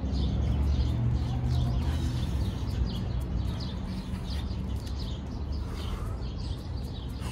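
Small birds chirping, many short quick calls one after another, over a steady low rumble.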